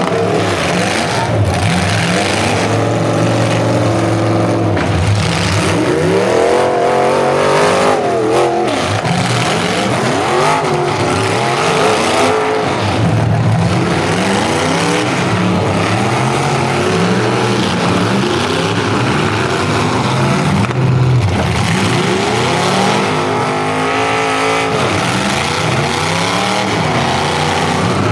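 Several full-size demolition derby cars revving their engines hard at once, the pitches of different engines climbing and dropping over one another. A few sudden knocks are heard from car-on-car hits.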